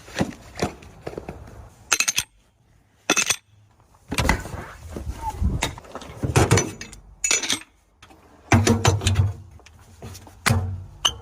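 Irregular clinks and knocks, like metal parts being handled, with short silent gaps between them.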